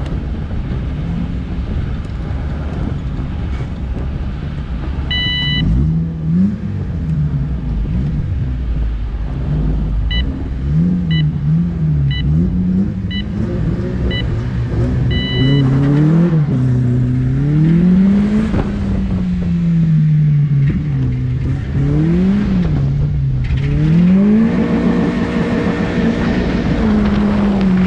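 Car engine idling and blipped while a start clock beeps a countdown: one beep, then five short beeps about a second apart and a longer final beep that signals the start. The car then pulls away, its engine revving up and falling back repeatedly through gear changes.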